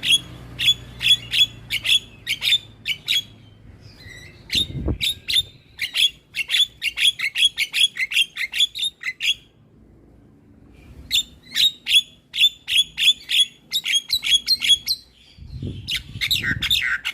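Javan myna calling: rapid runs of short, sharp calls, about three to four a second, broken by pauses of about a second. A low thump sounds about five seconds in, and two more near the end.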